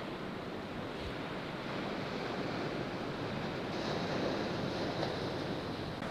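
Steady rush of sea and wind noise aboard a sailboat, with wind on the microphone.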